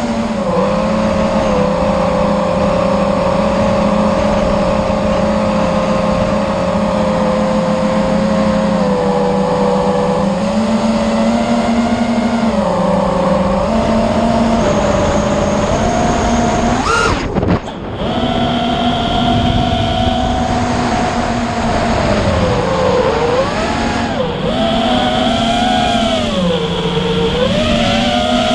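A motor running at a steady pitch, the pitch dipping and coming back up a few times in the second half, with a brief break about 17 seconds in.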